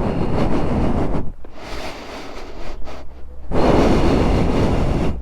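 Wind buffeting the microphone on a moving motorcycle, in two loud surges with a steady low rumble underneath.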